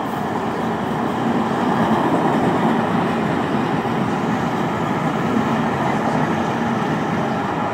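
Metro-North M7A electric multiple-unit train passing along the line, a steady train noise that swells over the first two seconds and then holds.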